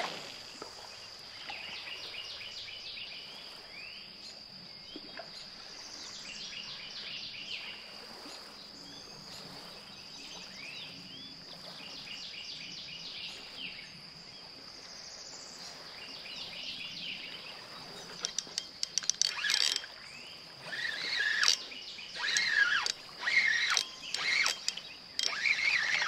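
Outdoor natural ambience: songbirds chirping in short repeated trills over a steady high-pitched drone. About two-thirds of the way in come a few sharp clicks and louder, closer bird calls.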